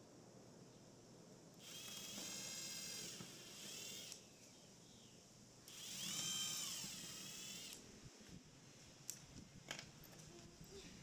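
Power drill run in two bursts of about two seconds each, its whine rising in pitch, holding, then winding down. A few light clicks follow near the end.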